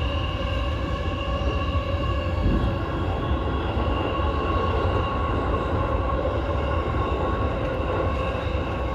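Keihin-Tohoku Line E233-series electric train running at speed: a steady rumble of wheels on rail with a constant whine of the motors, heard from inside the car.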